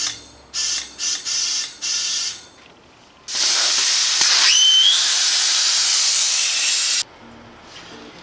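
Compressed air hissing loudly from an air nozzle for about four seconds, with a brief falling whistle early on, then cutting off suddenly: air being fed into the new tubeless scooter tyre.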